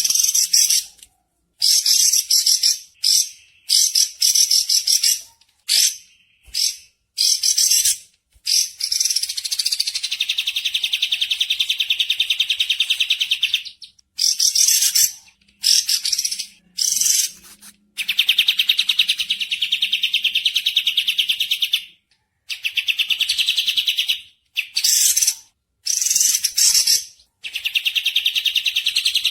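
Recorded birdsong: repeated short bursts of fast, high chattering trills about a second long. Three longer rattling trills of about four seconds each come between them.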